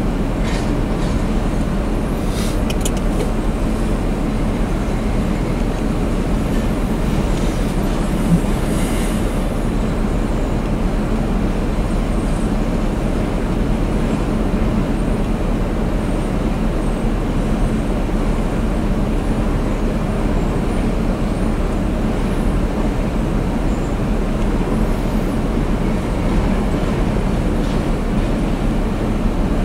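Freight train's double-stack intermodal well cars rolling past, a steady rumble of steel wheels on rail.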